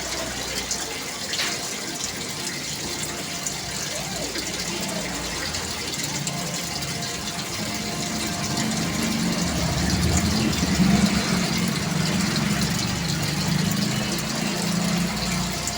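Water splashing and trickling steadily into an aquarium tank from a rain-style water return. A low rumble grows louder about halfway through.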